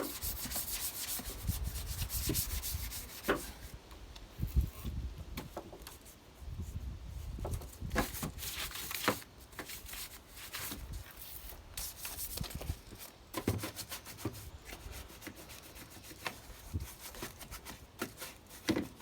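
Detailing brush scrubbing traffic film remover into engine bay surfaces in irregular, scratchy strokes, with the odd sharper knock.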